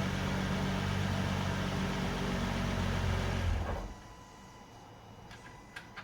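Nissan GT-R Nismo's twin-turbo V6 idling steadily, then shut off a little over halfway through. This is its first run after an oil change, kept short to fill the new filter and purge air from the oil system. After the shutoff a faint steady tone and a few light clicks remain.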